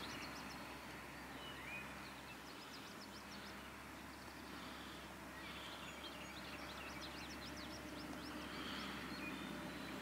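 Quiet outdoor ambience with faint distant songbirds: a couple of rapid runs of short, high chirps.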